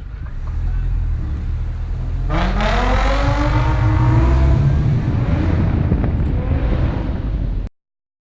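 Supercharged 1.6 L four-cylinder of a 2006 Mini Cooper S with a custom exhaust accelerating hard: about two seconds in the engine note sweeps up steeply and keeps climbing, over heavy wind buffeting on the microphone. The sound cuts off abruptly near the end.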